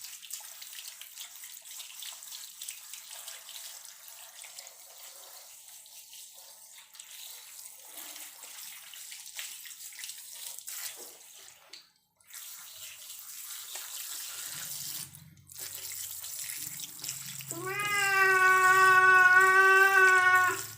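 Running water hissing steadily as a cat is rinsed during a bath. Near the end the cat gives one long, drawn-out yowl of about three seconds, the loudest sound, a sign of its dislike of the bath.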